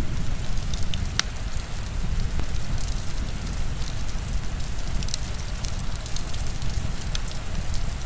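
Crackling wood fire with sharp scattered pops over steady heavy rain.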